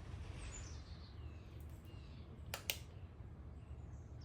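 Two sharp clicks a fraction of a second apart, about two and a half seconds in, over a low steady hum, with faint bird chirps in the background during the first second and a half.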